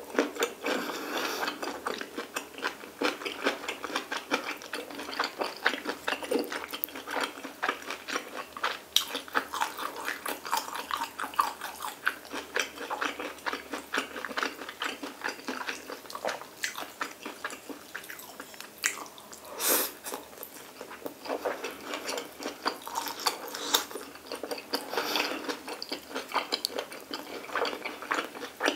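Close-miked chewing of mouthfuls of stir-fried kimchi, pork belly and rice, with a continuous run of small clicking mouth noises.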